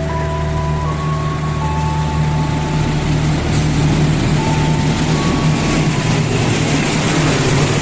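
Diesel locomotive engine idling with a steady low hum, while a rumble of an approaching train builds up over the second half. A faint melody of single held notes sounds over it, like a station chime.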